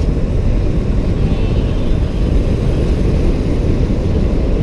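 Steady low rumble of riding on a motorbike: wind buffeting the microphone mixed with engine and road noise.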